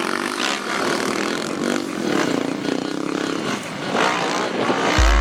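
Dirt bike engine running and revving as the bike is ridden, its pitch rising and falling. Deep bass music comes in right at the end.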